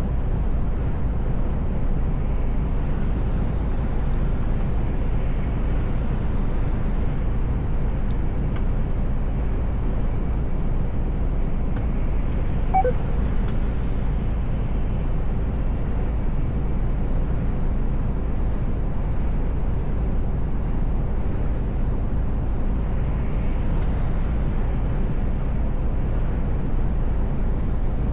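Mercedes Actros L truck cruising, heard from inside the cab: a steady low engine drone with road and tyre noise. A brief short tone sounds about halfway through.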